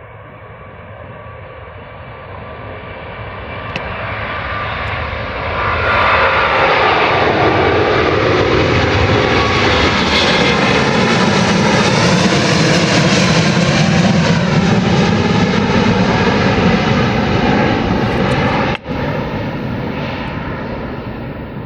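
Airbus A350-1000's twin Rolls-Royce Trent XWB turbofans at takeoff power: the jet noise builds for several seconds, holds loud as the airliner passes and lifts off, then fades as it climbs away, with a brief dropout near the end.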